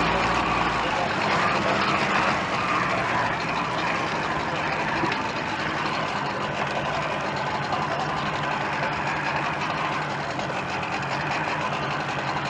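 Bass boat's outboard motor running steadily at low trolling speed, with wind and water noise over it. The deepest rumble drops away about a second in.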